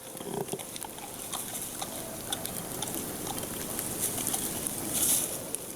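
Giant panda eating almost dry bamboo: a steady run of crunching and cracking as it chews the stalks, with a louder crackle about five seconds in.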